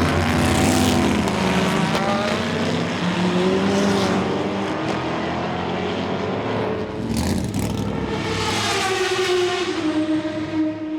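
Chevrolet Corvette C5-R's 7-litre V8 racing engine at speed on track, its pitch rising and falling with loud passes about a second in and again about eight seconds in.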